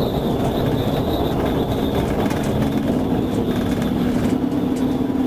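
Steady, loud drone of a moving vehicle: a low hum held over an even rushing noise.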